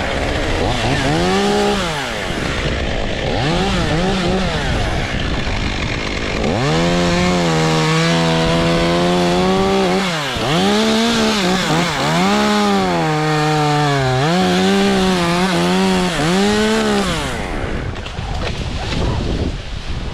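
Chainsaw revving in two short bursts, then running at full throttle for about ten seconds, its pitch dipping again and again as it loads up in the cut through a poplar limb. Wind hiss runs underneath.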